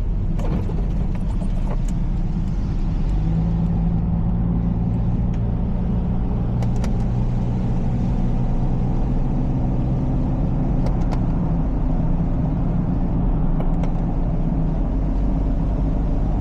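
Nissan Xterra engine and tyres heard from inside the cabin while cruising on a wet freeway. There is a steady low drone that strengthens slightly about three seconds in, under the hiss of tyres on water-covered road, with a few faint clicks.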